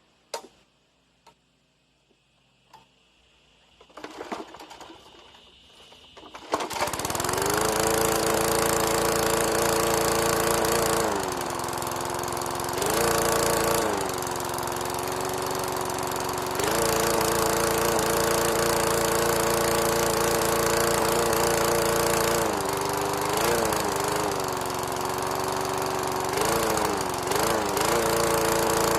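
A 3 horsepower Briggs & Stratton single-cylinder flathead lawn mower engine starts up about six seconds in, after a few quiet clicks, and keeps running, its speed sagging and picking up again several times.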